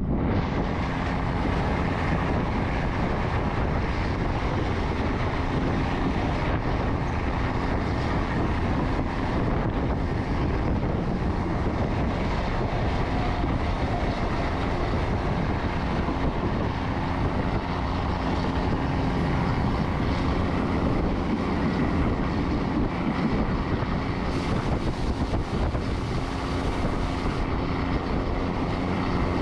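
Steady running noise of a moving passenger train heard from on board, with wind rushing across the microphone.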